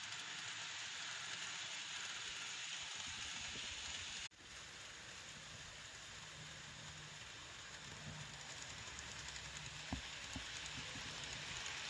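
N gauge model train running on its track: a steady hiss-like rolling and motor noise, briefly cut off about four seconds in, with a low hum and a few light clicks in the second half.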